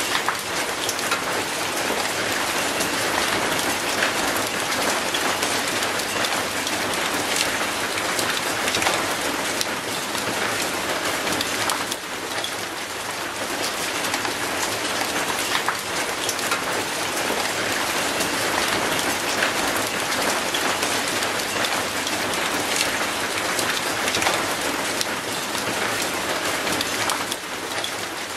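Steady rain falling on wet concrete and an old rusty metal gate: a dense, even hiss of many small drop hits.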